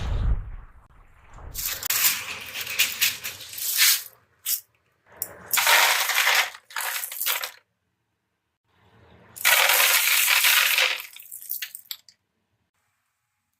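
Handfuls of freshly gathered sea snail shells rattling and clinking against each other in three separate bursts, each lasting one to two seconds.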